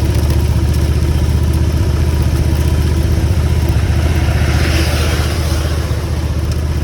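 Motorcycle engine running steadily under way, a low even drone. A brief hiss swells and fades about five seconds in.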